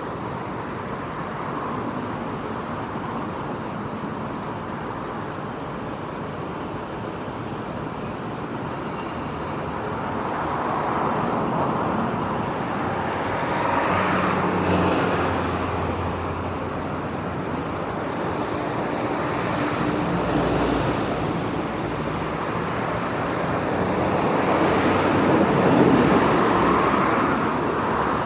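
Road traffic noise: a steady rush of passing vehicles, growing louder as individual vehicles go by about halfway through and again near the end.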